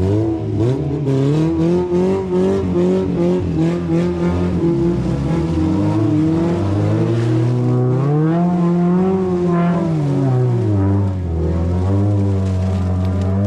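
Car's four-cylinder engine running and revving under load while driving off-road, its pitch rising and falling and climbing highest about two-thirds of the way through, with a rapid series of knocks and clunks in the first few seconds.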